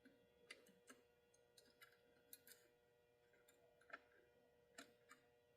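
Near silence with faint, irregular small clicks and taps of tiny parts and tools being handled on a model locomotive, over a faint steady hum.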